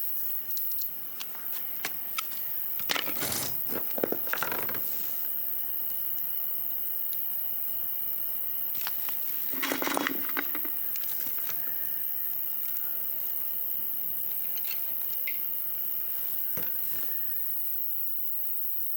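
Wood campfire crackling with scattered sharp pops, and two brief spells of louder rustling and knocking, about three seconds in and about ten seconds in, as wood is handled.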